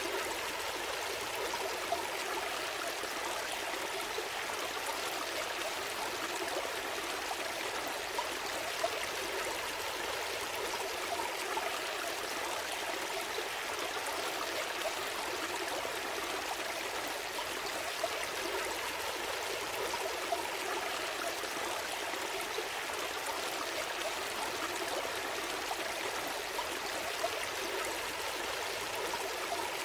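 A small stream flowing steadily, a continuous babbling wash of water with small splashes and trickles scattered through it.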